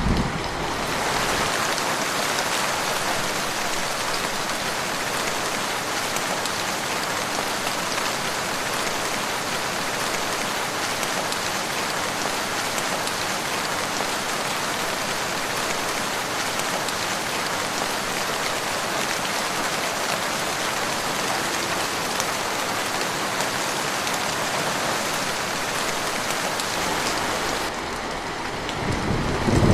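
Steady, even rain falling and pattering on a surface. In the last second or so, a low rumble starts to build.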